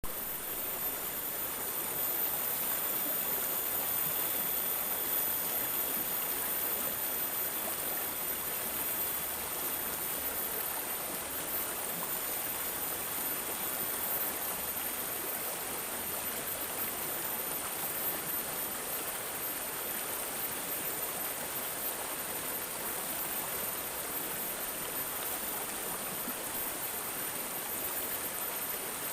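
Stream water gurgling and babbling steadily, with a thin, high-pitched whine running over it.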